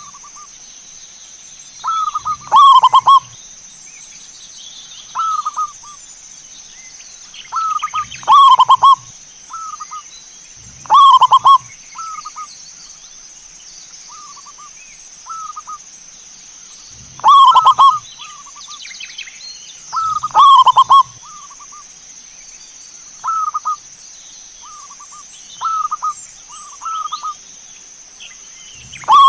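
Zebra dove (perkutut) cooing: short rhythmic coo phrases. Loud ones come every three to six seconds, with softer coos between. A steady high-pitched whine runs underneath.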